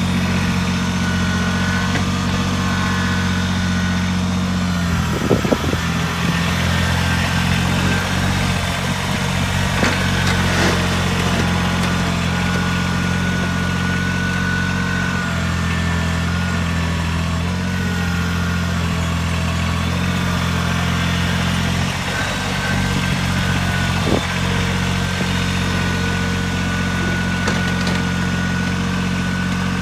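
Kubota BX2380 sub-compact tractor's three-cylinder diesel running steadily under light load while plowing snow, its pitch shifting a little, with a thin high whine that comes and goes. A few short knocks break in, about five, ten and twenty-four seconds in.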